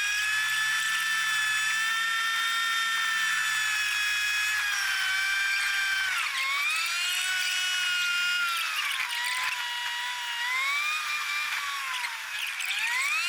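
High whine from a moving 1955 Ford 100E's drivetrain, heard inside the car. It holds steady at first, then its pitch drops and climbs back twice as the car slows and picks up speed.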